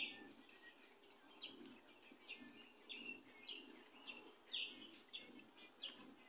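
Faint birds chirping in short, separate calls, some falling in pitch, over a quiet background.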